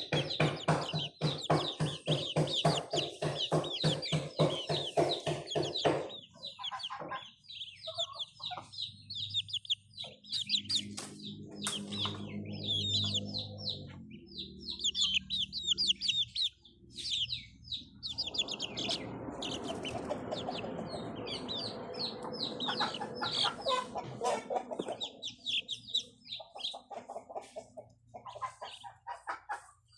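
Chickens clucking, with small birds chirping high and repeatedly throughout. A rapid, even pulsing is loudest during the first six seconds.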